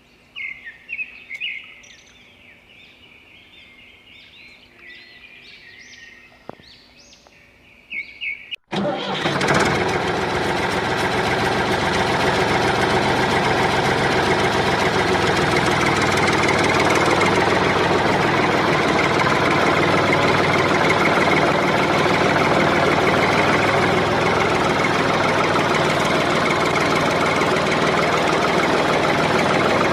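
Birds chirping for the first eight seconds or so, then an engine cuts in abruptly and runs loudly and steadily to the end.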